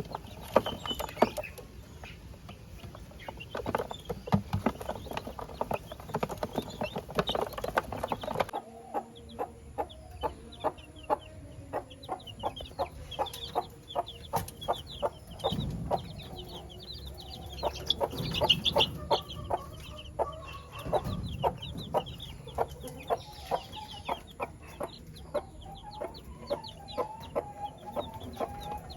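Parrot-beak long-tail chickens and their chicks clucking and cheeping, with many short, sharp taps.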